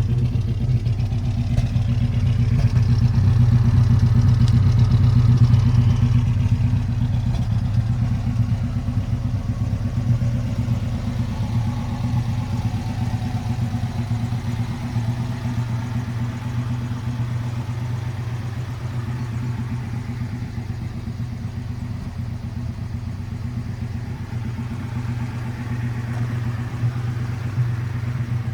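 Alfa Romeo GT 1300 Junior's 1.3-litre twin-cam four-cylinder engine idling steadily, swelling a little louder for a few seconds near the start.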